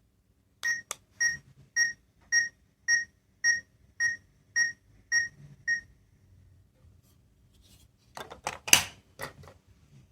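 Small electronic sound-making capsule toy beeping ten times, evenly spaced about twice a second, each beep the same high pitch. A few sharp plastic clicks follow near the end as the toy is handled.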